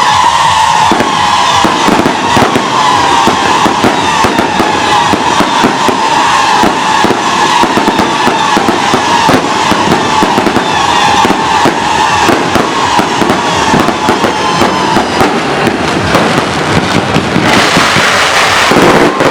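Electronic firecrackers crackling in a dense, unbroken barrage. Under the crackle a high tone slowly falls in pitch and fades out after about 16 seconds, and a loud hissing rush swells near the end.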